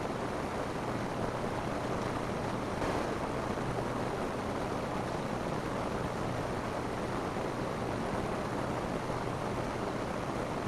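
Steady rain falling on a roof: an even, unbroken patter-hiss with a faint low hum beneath it.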